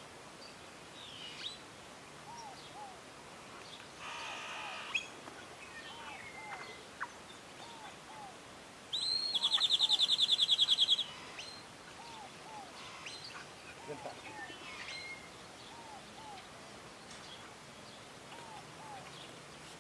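Birds calling: short faint chirps repeating throughout, and one loud, rapid trill lasting about two seconds near the middle.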